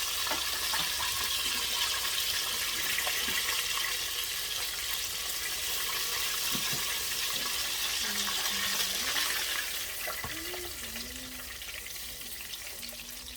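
Chicken wings frying in a deep fryer, the hot oil giving a steady sizzle that eases somewhat about ten seconds in.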